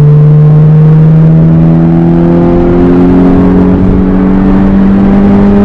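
Honda K20 Type R four-cylinder engine at wide-open throttle, heard from inside the car's cabin, its revs climbing steadily and unbroken through one gear in a pull for VTEC.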